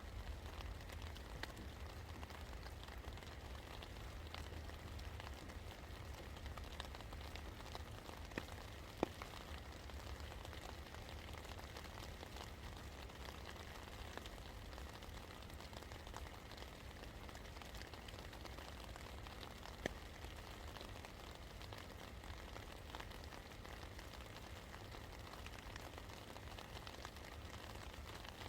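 Steady rain falling: an even hiss of many small drop ticks, with a low rumble underneath. Two louder single drips land about 9 and 20 seconds in.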